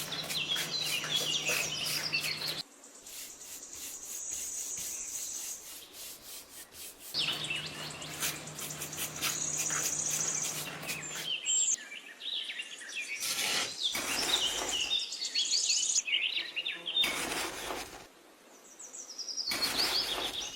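Birds chirping and twittering in quick short calls, with a steady high insect trill coming and going.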